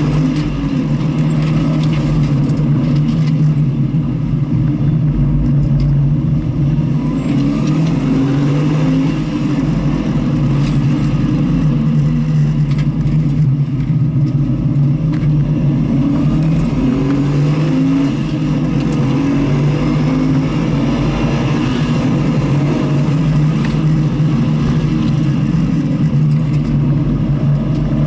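A vehicle's engine running hard on a race track, its pitch rising in several stretches as it accelerates and dropping back between them, over a steady rumble of wind and road noise.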